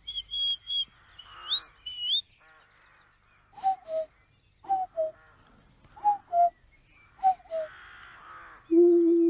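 A man imitating bird calls: four short upward-sliding whistles, then four two-note falling calls in the manner of a cuckoo, about one every second and a quarter. Near the end comes a low, wavering, held hoot.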